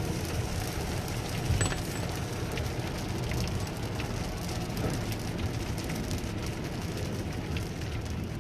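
Steady rumble and hiss of a vehicle moving in the rain, with a few faint ticks and a brief louder knock about one and a half seconds in.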